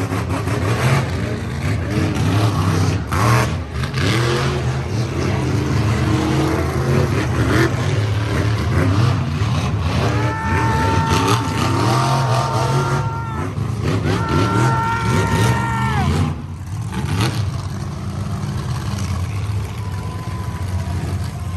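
Monster truck engines running and revving loudly. Two long horn blasts, each a chord of several steady pitches, sound about ten and fourteen seconds in.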